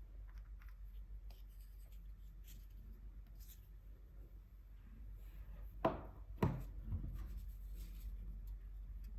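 Light scratching strokes on paper while gouache swatches are being made. About six seconds in come three sharp knocks in quick succession, the loudest sounds.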